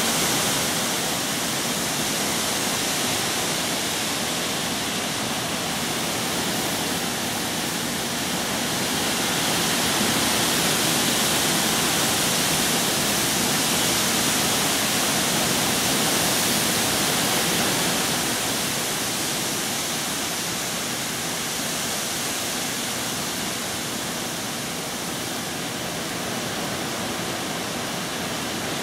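Heavy hurricane rain pouring down in a steady rush. It swells louder for several seconds in the middle, then eases.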